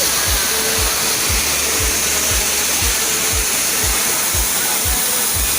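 Waterfall rushing: a loud, steady roar of falling water. Under it, the low beat of background music thumps about twice a second.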